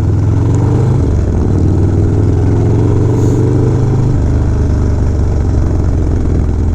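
Harley-Davidson V-twin motorcycle engine running under way, heard from on the bike with wind and road noise. The engine note rises about a second in and drops back about four seconds in.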